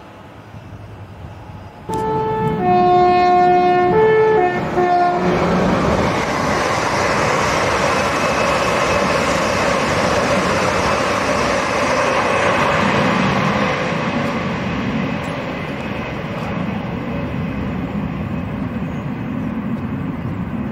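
A train horn sounds two alternating notes, high-low-high-low, for about three seconds. Then an LNER Azuma high-speed passenger train passes at speed with a steady rush of wheel and air noise that slowly fades as it runs away.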